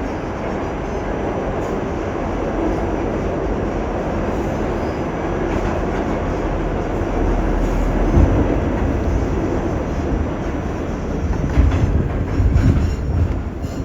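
R46 subway train running through a tunnel: a continuous low rumble of wheels on rail. It grows heavier from about eight seconds in, with uneven louder bumps near the end as the train comes into the station.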